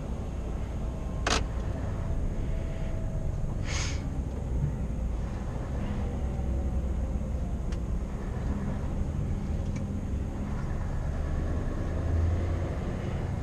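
Scania R520 V8 truck engine running on the road, a steady low rumble with road noise. Two short sharp clicks sound about a second and about four seconds in, the second with a brief hiss.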